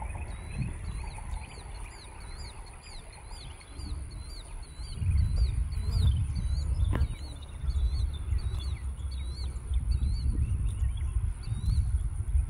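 A small bird calling over and over in short, high, hooked chirps, about two or three a second, with wind rumbling on the microphone, louder from about five seconds in.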